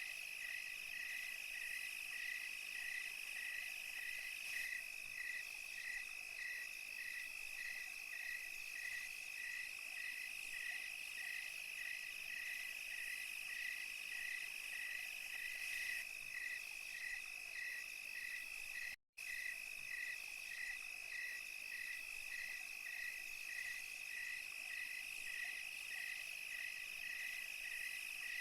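Night chorus of crickets and other insects: a steady high trill with a regular chirp pulsing over it, about two a second. The sound cuts out completely for a moment about 19 seconds in.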